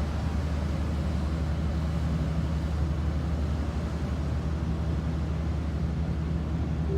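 Steady low drone of a ship's machinery, with an even rushing noise over it.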